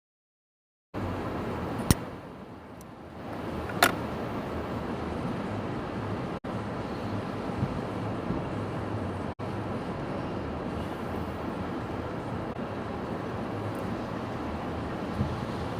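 Steady rush of wind and stormy sea on the microphone, with two sharp clicks in the first few seconds. The sound cuts in after about a second of dead silence.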